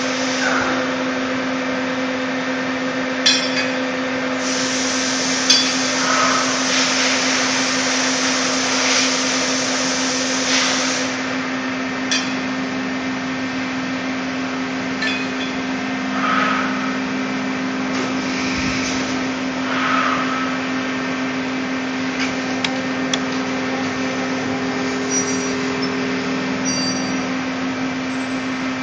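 Steady hum of a CNC lathe at rest during setup, with scattered metal clinks and knocks of tooling being handled. A hiss lasts several seconds near the start.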